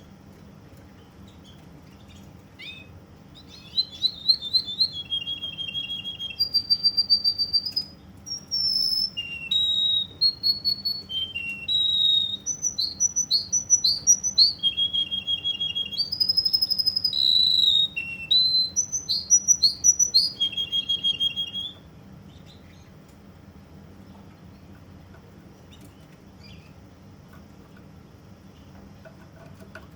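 Russian canary singing one long song of rapid trills and repeated whistled notes, switching pitch from one trilled phrase to the next. The song starts a few seconds in and stops after about nineteen seconds.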